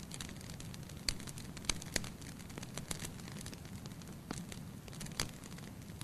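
Wood fire burning in a fireplace: a steady low rumble of flames with irregular sharp crackles and pops, the loudest about a second in, near two seconds and past five seconds.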